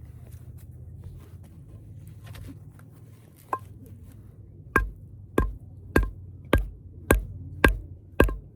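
Hard strikes, one about three and a half seconds in, then a steady run of seven at about two a second. Each is a dull thump with a short metallic ring, as from chopping or hammering.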